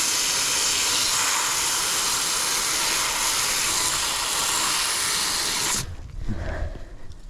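Garden hose spraying water onto the frozen outdoor coil of a heat pump to melt the ice, a steady hiss that cuts off suddenly near the end, followed by a few low thumps.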